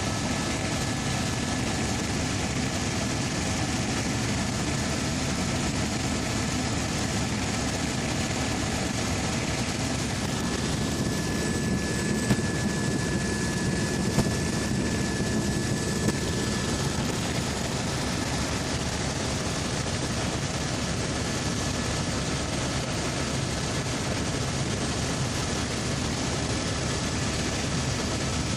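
Helicopter running, with a steady drone of engine and rotor noise and a few faint steady whining tones over it. Three brief clicks come around the middle.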